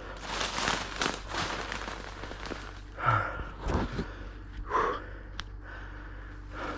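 Footsteps crunching through dry grass and brush at a steady walking pace, stopping after about two and a half seconds, followed by a few breathy exhales.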